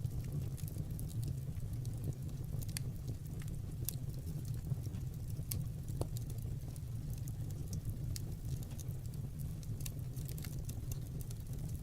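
Fire crackling: irregular sharp crackles and pops over a steady low rumble.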